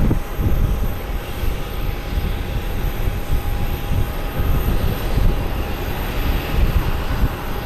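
Jet airliner engines running: a steady rush of noise with a thin, steady whine through it.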